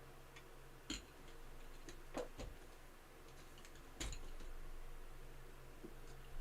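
A few faint, sharp clicks and taps, the clearest about a second in and about four seconds in, over a low steady electrical hum.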